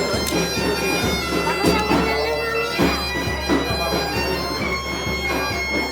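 Galician bagpipe (gaita) playing a tune over its steady drone, with a drum beating along.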